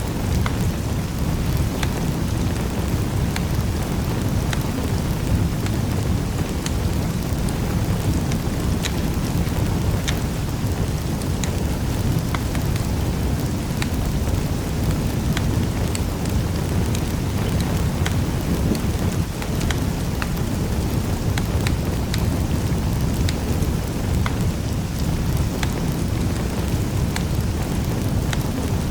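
Wood fire crackling in a fireplace: a steady low rumble of flame with many small, irregular pops and snaps scattered throughout.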